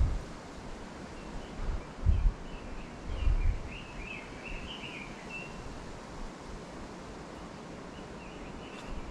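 A small bird chirping a quick run of short high notes for about three seconds in the middle, over a steady outdoor hiss. Two low thumps on the microphone come just before the chirps.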